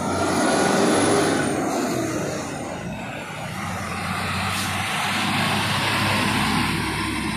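Road vehicles passing close by, their tyre and engine noise swelling and fading twice, once about a second in and again around six seconds, over a steady low engine hum. A high whine rides over the first pass.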